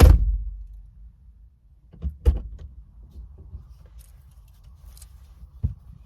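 Knocks and thumps of things being handled inside an SUV: a heavy thump at the start, two sharper knocks about two seconds in, and a short low thud near the end.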